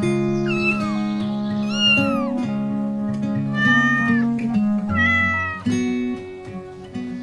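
A cat meowing about four times, each meow falling in pitch, over background music with plucked guitar.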